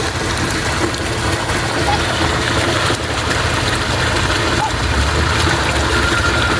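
Steady rush of flowing water with a low rumble underneath.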